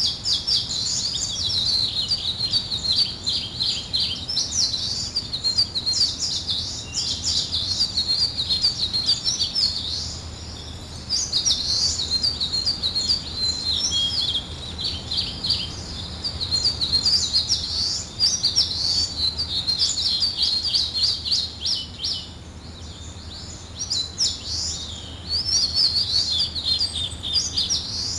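Small songbirds chirping and twittering in fast, high-pitched strings almost without a break, with brief lulls about ten and twenty-two seconds in, over a faint steady low hum.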